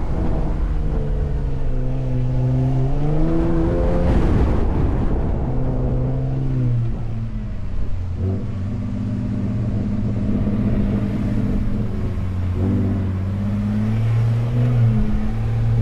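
Ford F-150 Raptor engine driving through desert sand. The engine note climbs for the first few seconds, drops sharply about four seconds in as it shifts, then holds a steadier note that rises a little near the end, over a low rumble.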